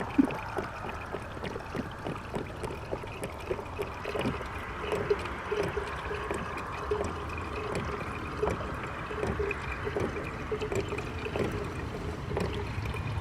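Green antifreeze pouring from a jug into a truck's coolant overflow tank, a steady trickle with irregular glugs. The coolant is being topped up because it is low, about a gallon short.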